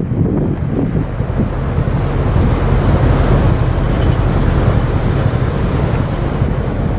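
Wind buffeting the microphone aboard a cargo ship under way at sea, over a steady low rush of water and the ship's running. The noise stays loud and even throughout.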